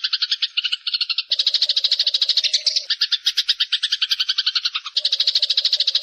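Eurasian tree sparrows chattering in a fast, unbroken run of chirps, about ten or more notes a second. The pattern shifts about a second in and again near the end.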